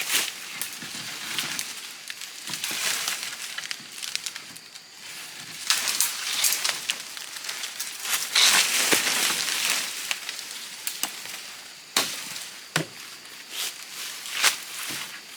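Irregular rustling and crackling of leaves and branches being handled, with a few sharp knocks near the end.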